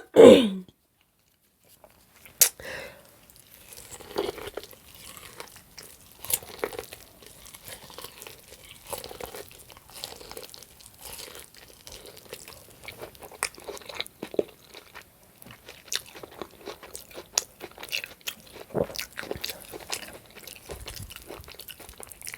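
A person chewing ribeye steak close to the microphone: irregular wet smacks and small clicks of the mouth and teeth. A brief loud vocal sound comes right at the start.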